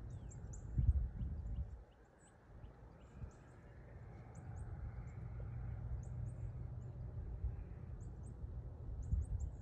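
Small birds chirping, many short high calls scattered throughout, over a low rumble that is loudest about a second in.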